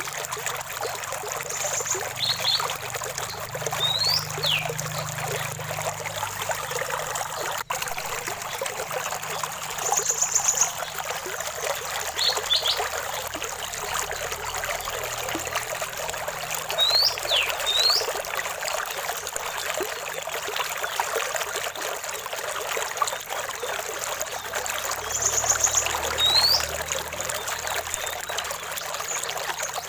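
Small stream trickling and splashing steadily, with birds calling over it: a short high trill and quick rising whistled notes that come back in small groups several times.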